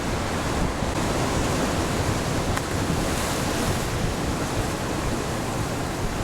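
Steady wash of ocean surf against rocks, with wind buffeting the microphone.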